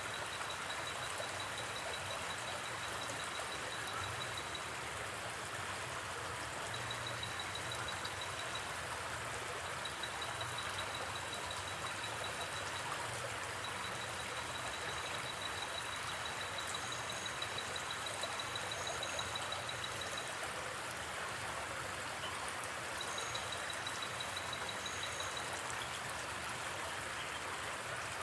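River water flowing steadily with an even rushing. Over it, a night insect gives a high, pulsing trill at one pitch in runs of a few seconds with short gaps, and a few brief higher chirps come near the middle and toward the end.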